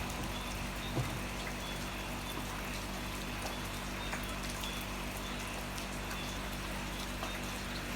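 Steady heavy rain falling, with scattered individual drops pattering close by.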